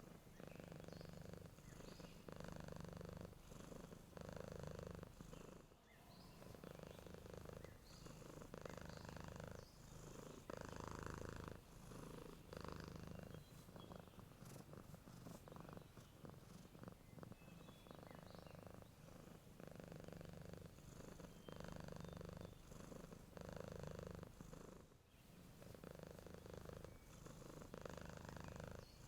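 Domestic cat purring softly and steadily, the purr swelling and easing with each breath about once a second, with faint bird chirps in the background.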